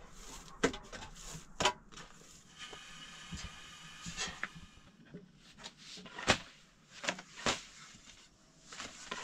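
A handful of separate sharp knocks and clatters, like things being handled and set down, with a rasping scrape of about two seconds in the middle.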